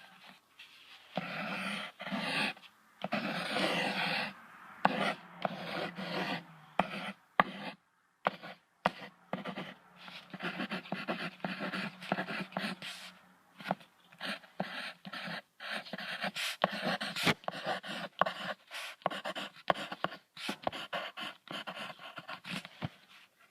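An animal making quick, repeated breathy sounds in runs, with short gaps between them.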